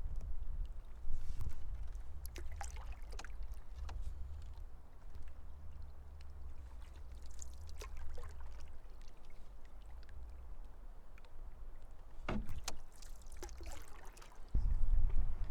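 Canoe paddle strokes in lake water: a few irregular splashes and drips over a steady low rumble, which gets louder shortly before the end.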